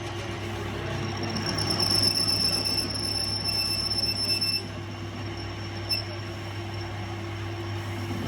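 A workshop machine running with a steady hum. A high-pitched metallic squeal rises over it from about a second in and stops after about four and a half seconds, and there is a short click near the end.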